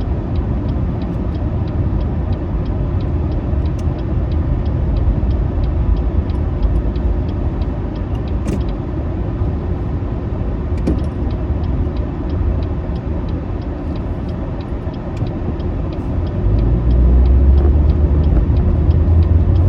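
Car running on the road, heard from inside the cabin: a steady low rumble of engine and tyres, with a light regular ticking about three times a second through much of it. The rumble grows louder near the end.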